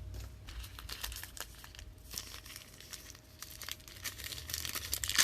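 Crinkling and tearing of trading-card pack wrappers as packs are handled and opened, an irregular run of small crackles.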